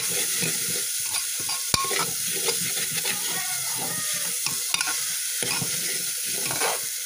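Moong dal sizzling as it is fried in spiced oil in a pressure cooker pot, a metal spatula stirring and scraping it with scattered clicks against the metal, the sharpest a little under two seconds in.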